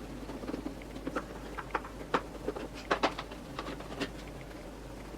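Irregular small clicks and taps of a Phillips screwdriver being fitted to and turning out the side-panel screws of an electric unicycle, with light handling of the panel.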